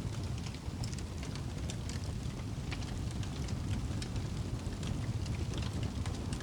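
Wood fire burning in a fireplace: a low, steady rumble with frequent small, irregular crackles and pops.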